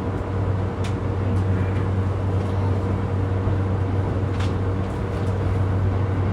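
Inside the car of a JR East E235 series 1000 electric multiple unit: a steady low electrical hum with a thin steady tone above it, and two short clicks, about a second in and near two-thirds of the way through.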